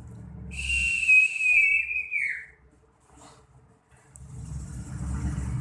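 Common iora giving one long, drawn-out whistle of about two seconds that drops in pitch at the end. Near the end comes a quieter hiss with a low rumble.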